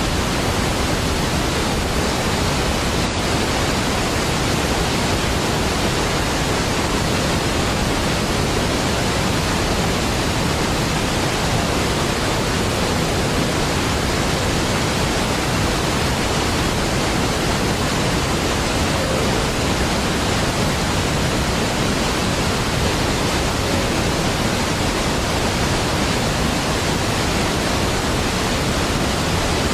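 Large waterfall: a steady, unbroken rush of falling water, deep and even with no changes.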